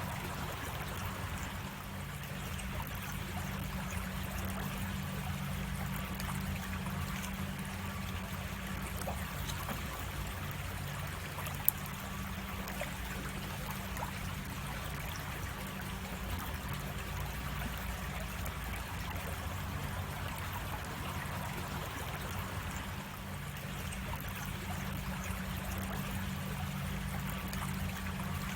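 Creek water running steadily, with a single sharp click about twelve seconds in.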